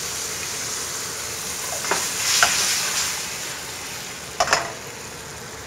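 Bacon, mushrooms and honey mustard dressing sizzling in a hot wok as the dressing heats up. The sizzle swells about two seconds in as the wok is tossed, with a few sharp knocks of the pan.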